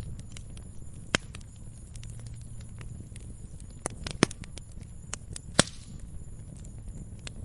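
Logs burning in a fireplace, crackling with scattered sharp pops over a low, steady rumble of flame. One pop comes about a second in, a quick cluster follows just past halfway, and the loudest comes shortly after.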